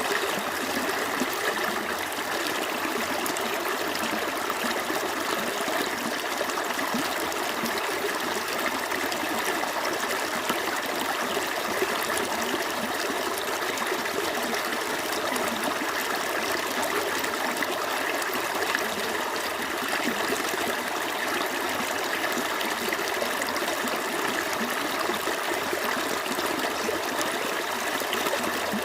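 Small stream flowing over stones: a steady, continuous babble and trickle of running water.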